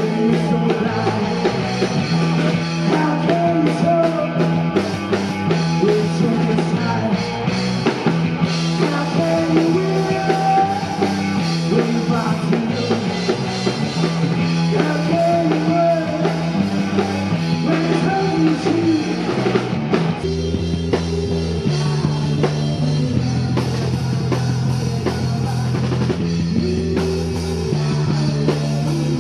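Rock band music: drum kit and guitar with a steady bass line and singing. The bass moves to a lower part about twenty seconds in.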